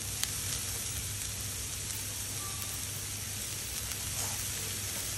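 Chopped vegetables frying in hot oil in a kadai: a steady sizzle, with a faint click or two as more vegetables are tipped in near the start.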